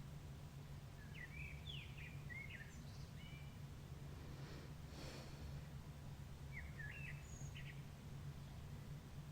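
Dawn birdsong heard faintly from outside a window: scattered short chirps and song phrases in two clusters, over a steady low hum.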